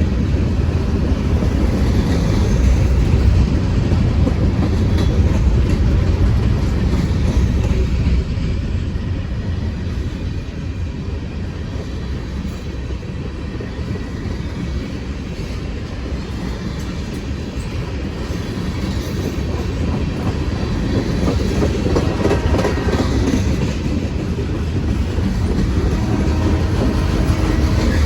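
Heavy freight train behind an EMD SD40-2 diesel locomotive: a steady low rumble that eases after about eight seconds and builds again near the end.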